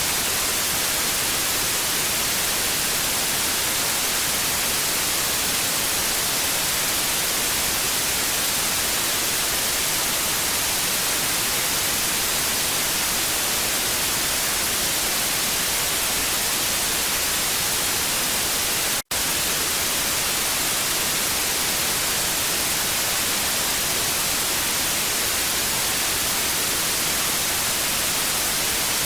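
Television static: a steady, even hiss, brightest in the treble, with one split-second break about two-thirds of the way through.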